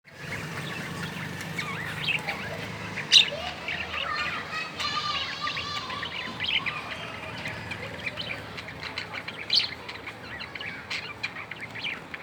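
Budgerigars chirping and warbling: many quick chirps, with a sharp loud chirp about three seconds in and a longer warbling chatter around the middle.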